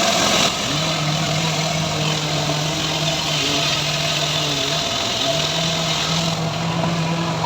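Engine of a homemade srekel sawmill running steadily, its low hum dropping out briefly and returning a few times.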